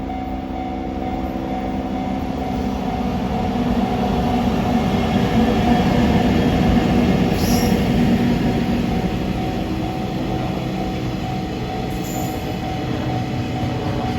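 Freight train running past on the rails, with a steady hum under the noise of the wheels. It grows to its loudest about halfway through and then eases, with two short high-pitched sounds, one in the middle and one near the end.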